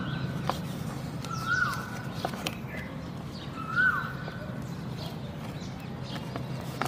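A bird calling outdoors: a short note that rises and then falls, twice a couple of seconds apart, over a steady low background rumble with scattered light clicks.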